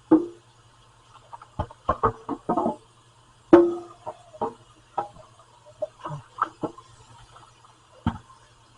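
A series of irregular knocks and clatters, about a dozen, a few with a short pitched ring; the loudest comes about three and a half seconds in.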